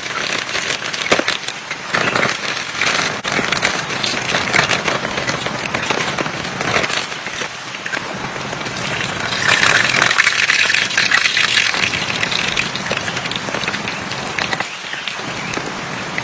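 Heavy rain falling steadily, a dense hiss full of fine patters and crackles, growing louder for a few seconds about ten seconds in.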